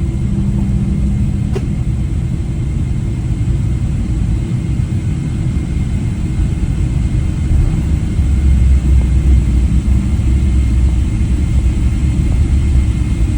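Boeing 777 on its landing run, a steady low rumble that grows louder about eight seconds in. A single brief click sounds about one and a half seconds in.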